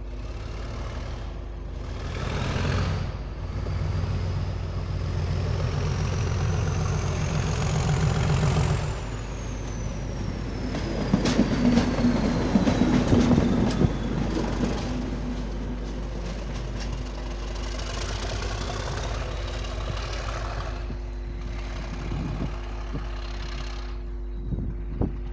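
Class 37 diesel-electric locomotive with an English Electric V12 engine pulling away under power. A whistle rises steadily for about eight seconds as the engine works up, then falls away. A burst of sharp clicks and clanks comes in the middle, and the sound fades toward the end as the locomotive draws away.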